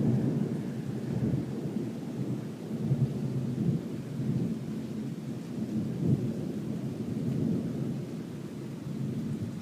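Rolling thunder rumbling on and off through a thunderstorm, with rain falling steadily.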